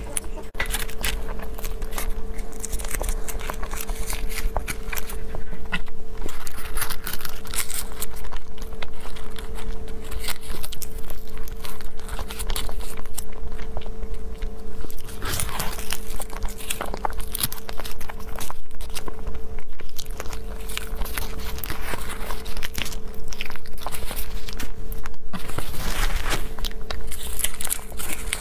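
Close-miked eating sounds: biting into and chewing a soft, mochi-like sweet, full of small irregular clicks. Paper liner crinkles near the end as the next sweet is handled, over a steady electrical hum.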